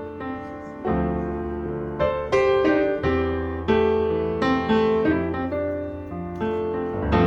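Background piano music: a gentle melody of single struck notes over sustained bass chords, each note decaying after it is played.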